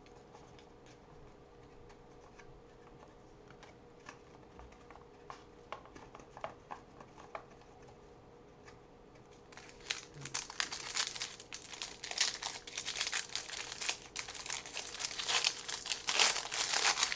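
Faint scattered clicks of trading cards being handled, then, about ten seconds in, loud crinkling and tearing as a trading-card pack wrapper is torn open.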